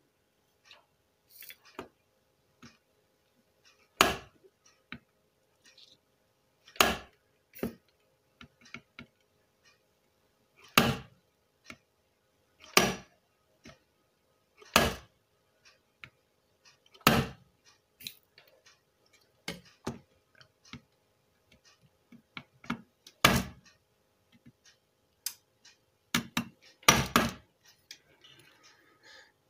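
A circuit board being knocked sharply against a hard surface, one sharp knock about every two seconds with lighter taps between, to shake molten solder out of an amplifier IC's pin holes during desoldering. A faint steady hum runs underneath.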